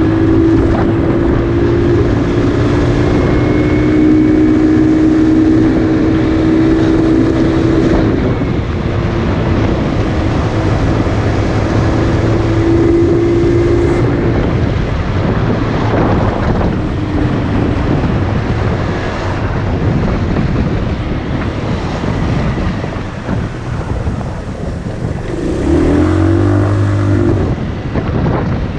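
Motorcycle engine running under way with a rush of wind on the microphone. Its steady note is strongest for the first several seconds, sinks into the wind rush, and swells and wavers briefly near the end as the revs change.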